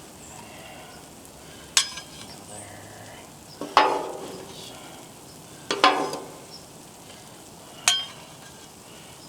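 Food sizzling steadily on a Blackstone flat-top griddle, with four sharp metallic clanks of a utensil against the hot griddle, spaced about two seconds apart.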